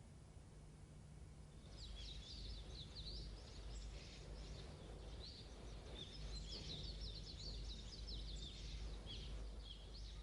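Faint birdsong: small birds chirping and twittering in quick, high runs, starting about two seconds in, over a low steady hum.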